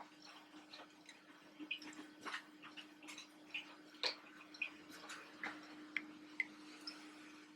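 Faint, irregular small pops and crackles of garlic cloves frying in heating oil, over a steady low hum.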